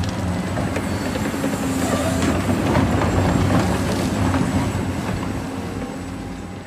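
Large Caterpillar hydraulic excavator digging: its diesel engine drones steadily under load, with knocks and rumble of earth and rock, fading near the end.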